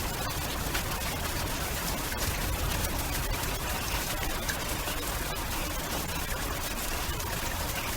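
Steady heavy rain: a dense hiss with many sharp taps of drops, over a low rumble.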